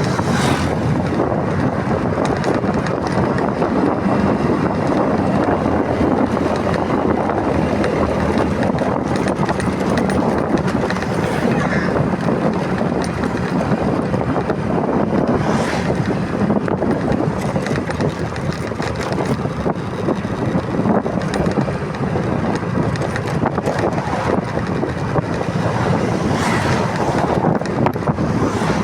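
Steady wind rushing over the microphone of a moving motorcycle, with the engine's low hum underneath.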